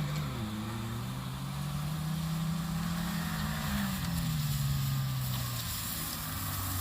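Small off-road 4x4's engine revving: the pitch climbs over the first few seconds, holds briefly, then drops away as the throttle eases.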